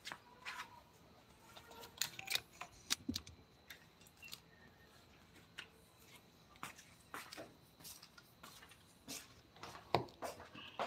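Scattered light clicks and taps at irregular intervals, a few of them sharper around two to three seconds in and again near the end: small hard objects being handled.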